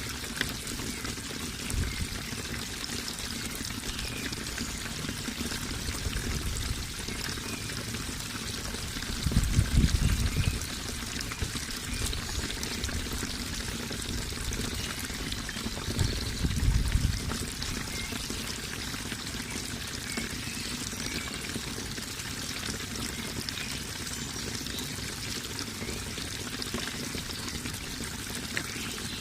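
Running water with a steady, even rush. Two brief low rumbles swell up, about nine and sixteen seconds in.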